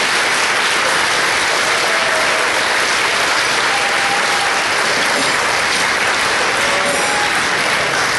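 Audience applauding steadily, a dense sustained clapping with a few faint whistles or cheers in it.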